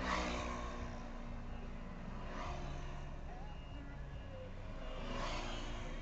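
Heavy diesel vehicle engine running steadily, with three rushing swells: one at the start, one near the middle and one about five seconds in.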